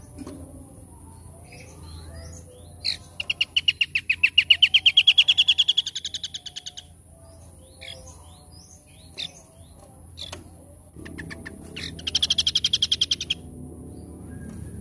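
Small songbirds chirping, with a loud rapid trill of evenly repeated notes about three seconds in that rises slightly in pitch and lasts about four seconds, and a second, shorter trill near the end.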